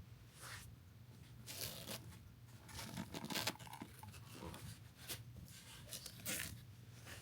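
Irregular rustling and scraping handling noises, a string of short uneven scuffs with no music or voice.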